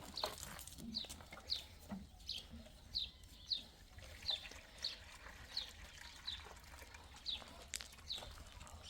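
A small bird, or a chick, chirping over and over: short, high, downward-sliding chirps, roughly one every half to three-quarters of a second.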